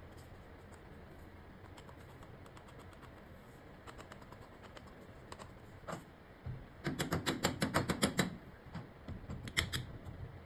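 Quick runs of light clicking taps from handling the coffee machines' portafilters as the ground coffee is settled. A fast flurry of about ten taps a second comes about seven seconds in and is the loudest part.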